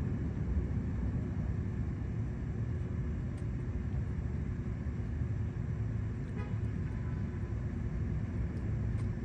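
Steady low rumble of road traffic, with a faint steady hum and a few light ticks.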